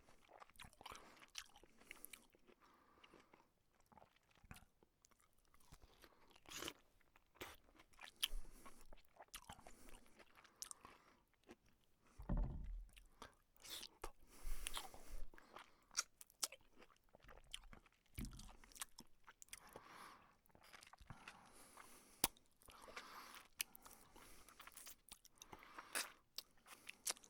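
A person biting and chewing crunchy food, with irregular crackly crunches that come and go.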